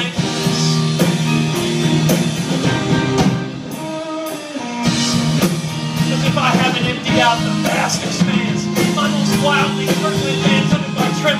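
Live band playing a rock groove: drum kit with regular cymbal hits under sustained bass and guitar lines. The band drops out briefly about four seconds in.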